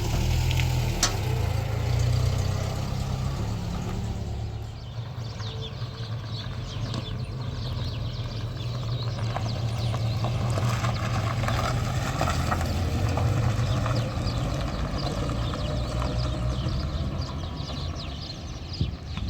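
A car engine running steadily, with light clicks and rattles over it.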